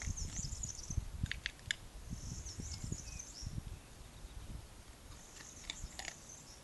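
Small birds twittering in the background in three short spells, with uneven low rumbling and a few brief sharp clicks about a second and a half in.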